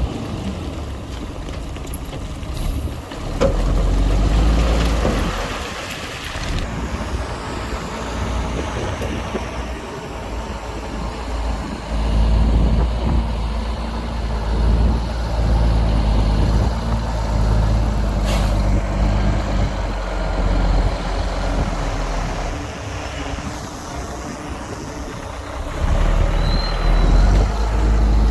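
Diesel engines of heavy earthmoving machines, a bulldozer and dump trucks, running and working, the engine sound swelling and fading several times as the machines work. A single sharp knock comes about two-thirds of the way through.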